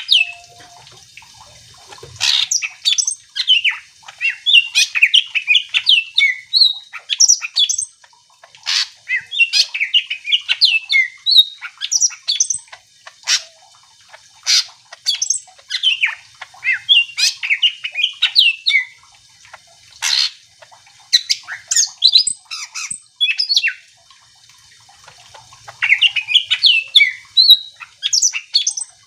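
Green leafbird (cucak ijo) singing: fast, varied phrases of high chattering and whistled notes mixed with sharp single chips, coming in bursts of a few seconds with short pauses between.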